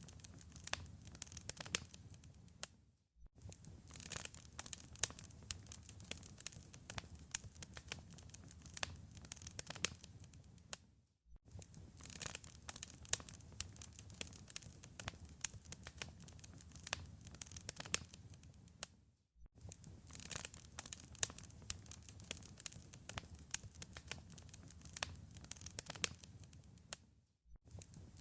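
Wood fire in a fireplace crackling, with a dense, irregular run of sharp pops and snaps over a low rumble. The sound cuts out briefly about every eight seconds.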